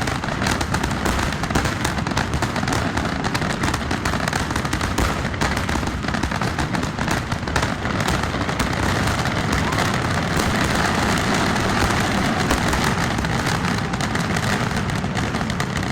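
Fireworks finale: a dense, continuous barrage of bangs and crackling shells, the bursts running together without a gap.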